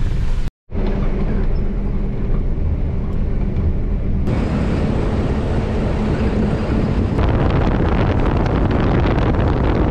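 Truck running down the highway: steady engine and road rumble with a constant low hum, and wind noise that grows stronger after about seven seconds. The sound cuts out for a split second about half a second in.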